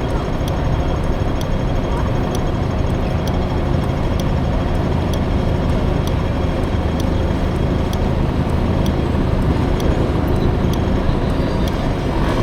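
Honda Motocompo with a swapped-in Honda Dio two-stroke scooter engine running steadily while riding, heard over road noise.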